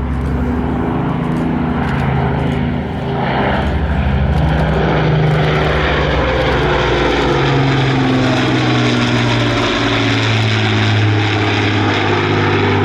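Avro Lancaster bomber's four Rolls-Royce Merlin piston engines droning in a steady, loud flypast, the engine note shifting in pitch as the aircraft passes.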